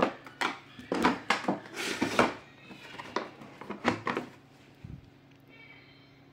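Hard plastic parts of a Kärcher WD 3 vacuum cleaner's housing clicking, knocking and scraping as the cover is worked open by hand. There is a quick run of sharp clicks in the first four seconds and one low thud near five seconds.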